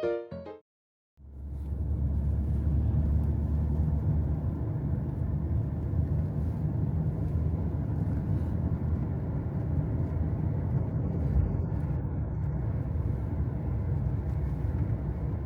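Steady low rumble of a car on the move, road and engine noise, fading in about a second in after a short silence.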